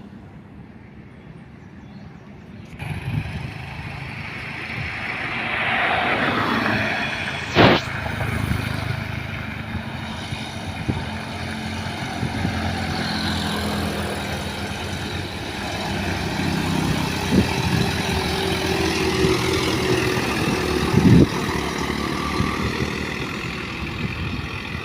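Heavy diesel truck engine working hard as the truck climbs a steep hill, coming in about three seconds in and holding at a strained, steady pitch. Two short sharp cracks stand out above it, one early and one near the end.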